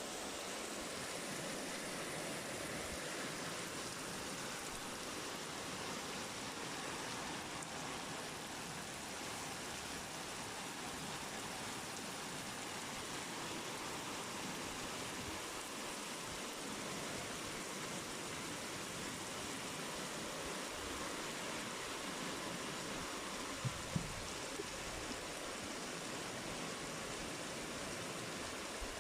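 Steady rain falling, an even hiss without a break, with two brief ticks late on.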